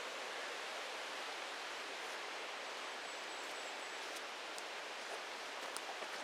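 Steady rush of a mountain creek, an even hiss with no change, with a few faint light clicks near the end.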